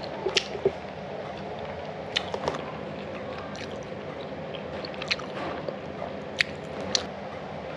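A person chewing crispy fried pork ngohiong close to the microphone: wet, squishy mouth sounds with scattered sharp crunchy clicks.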